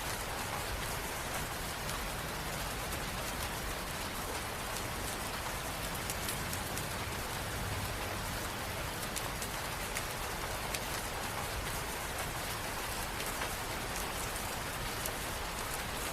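Steady rain falling: a dense, even hiss dotted with many small drop ticks.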